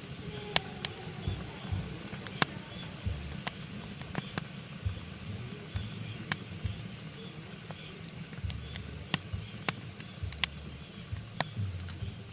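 Pine logs burning in a fireplace, crackling with irregular sharp pops, about two a second, over a steady hiss and low rumble of the fire.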